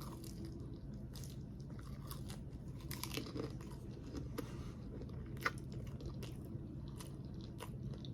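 Close-miked chewing and biting of a sauce-covered crab rangoon, with scattered soft crunches and clicks from the fried wonton wrapper and one sharper click about five and a half seconds in.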